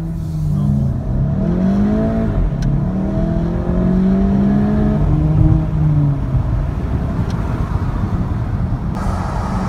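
A car's engine heard from inside the cabin, accelerating: its pitch climbs and drops back twice, as at gear changes, then holds nearly steady over road rumble. Road and wind noise grow louder near the end.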